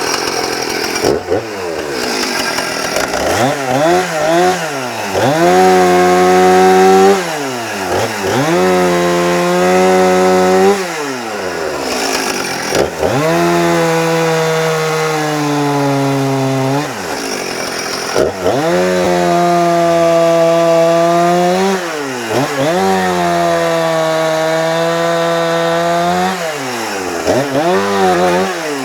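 Two-stroke chainsaw revved up again and again, held at high revs while the pitch sags under the load of cutting wood, then dropped back to idle between cuts, about seven times.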